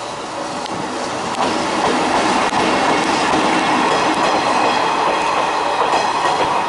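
A train passing close: an EF65 electric locomotive hauling a new YR-3000 diesel railcar, with wheels rumbling and clacking over the rail joints. It grows louder over the first two seconds as the railcar draws level, then holds steady.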